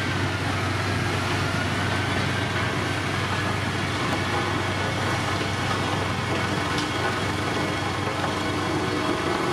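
Diesel engine of heavy road-construction machinery running steadily, with a constant low hum.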